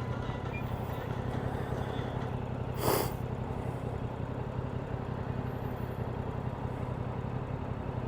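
Motorcycle engine running at a steady speed, with a short rushing whoosh about three seconds in.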